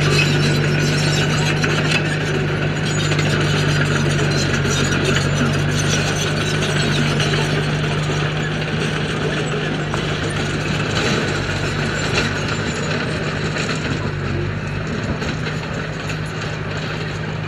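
Bulldozer's diesel engine running steadily under load, with a dense metallic clicking and rattling over the engine's hum.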